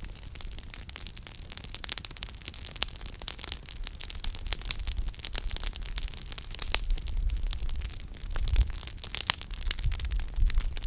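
Wood campfire crackling, with many sharp irregular pops and snaps from the burning firewood over a low rumble.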